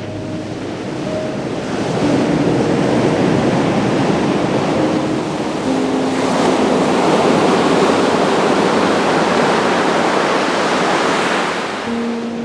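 Ocean surf breaking on a beach. The waves' rush swells about two seconds in and again around six seconds, then washes back near the end.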